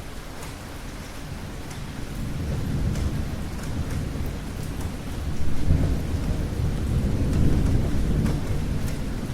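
Rain falling with rolling thunder: a low rumble builds about two seconds in and is loudest around the middle, over faint ticks of raindrops.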